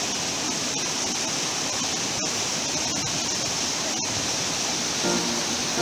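Waterfall rushing: a steady hiss of falling water. Music with sustained notes comes in near the end.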